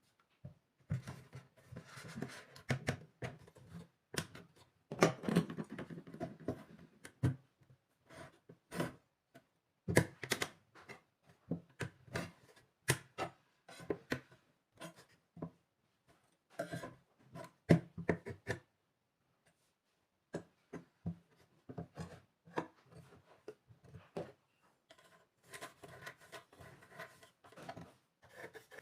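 Irregular taps, clicks and short knocks of hands working on small wooden and metal parts, with no saw motor running. There is a brief pause about two-thirds of the way through.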